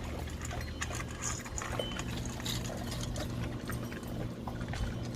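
Dogs eating at their bowls: irregular small clicks and smacks of mouths on food and bowls, over a low steady hum.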